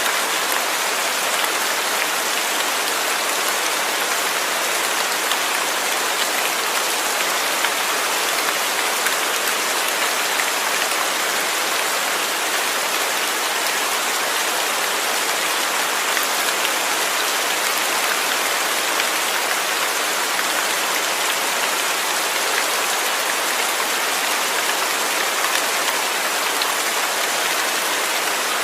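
Steady rain falling, a dense even hiss of drops with faint scattered patters on a surface.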